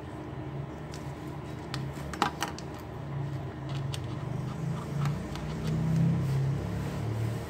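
A few sharp plastic clicks and taps as a laptop hinge and case parts are handled and fitted, about two seconds in. Under them runs a low background rumble that swells and fades, loudest near the end.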